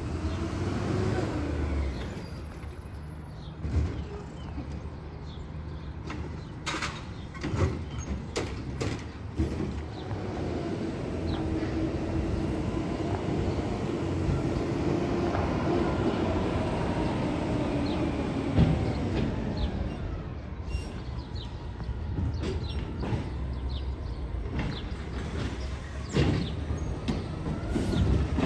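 Garbage truck running steadily while its hydraulics whine, rising and falling in pitch, as recycling carts are lifted and dumped. Several sharp bangs and clatters of carts and their contents hitting the hopper come through, the loudest about 19 s in.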